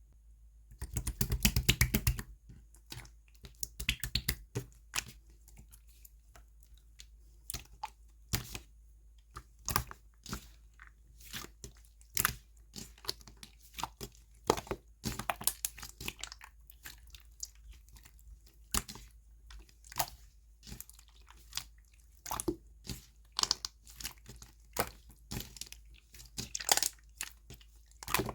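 Slime being squeezed, pressed and stretched by hand, giving irregular sticky clicks and crackling pops, with a dense crackling run about a second in.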